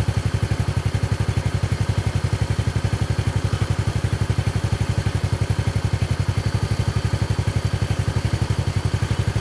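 Vehicle engine idling with a steady, even throb.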